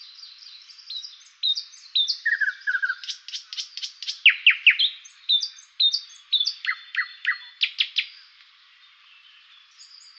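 Songbirds chirping and singing: a busy run of short, sharp high notes and quick downward-sweeping calls, thickest in the middle and thinning out near the end.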